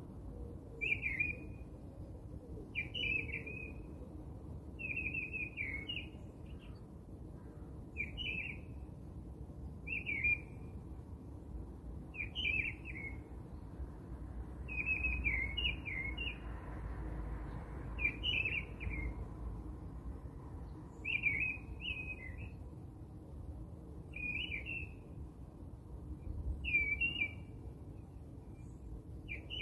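A small bird chirping in short, high phrases repeated about every two seconds, over a faint low background rumble.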